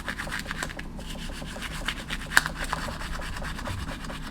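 Rapid back-and-forth scrubbing on a pistol part during cleaning, an even rasping rhythm of about seven strokes a second, with one sharper click a little past halfway.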